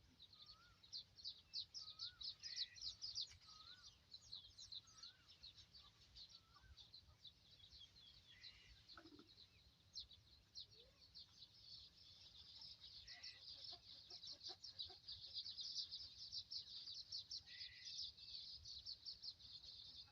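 Quiet outdoor ambience of birds calling: a dense, high chirring throughout, short whistled calls about once a second in the first few seconds, and a brief call repeating every four to five seconds.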